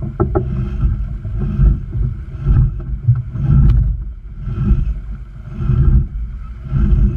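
Sailboat under way: wind buffeting the microphone in gusts that swell and fade about once a second, over water rushing past the hull. A single sharp click comes about three and a half seconds in.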